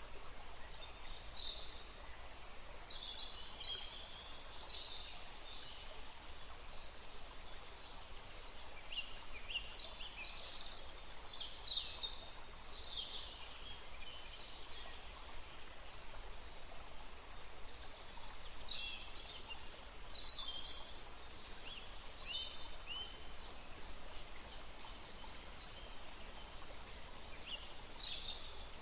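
Several songbirds chirping and calling in short, high phrases over a steady outdoor background hiss, with the calls busiest in two spells.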